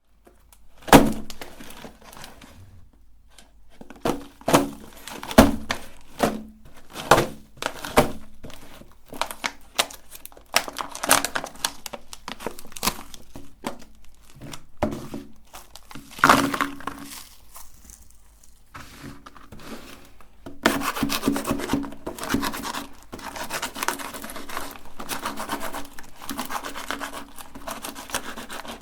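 Meat grinder crushing sugar-shelled chocolate candies: scattered sharp cracks and crunches, turning into a dense, continuous crackling about two-thirds of the way through.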